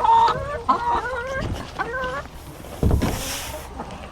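Chickens clucking: a quick run of short, pitch-bending calls over the first two seconds, then a rustle and a dull thump about three seconds in.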